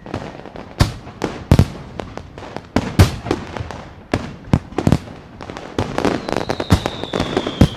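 Fireworks going off in a rapid, irregular barrage of sharp bangs, about two a second, with crackling between them. From about six seconds in, a high whistling tone joins and slowly falls in pitch.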